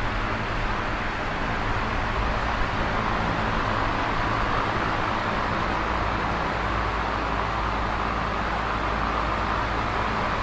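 Electric fan running steadily: a constant rush of moving air with a low motor hum underneath.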